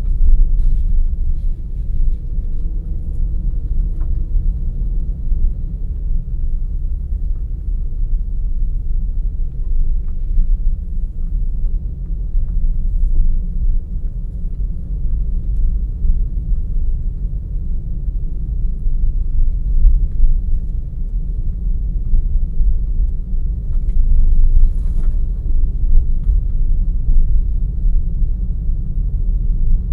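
Car driving along a forest road: a steady low rumble of engine and tyre noise, with a few faint ticks and knocks over it.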